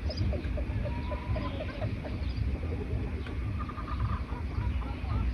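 Several songbirds chirping and calling in quick, overlapping short notes, with a steady low rumble underneath.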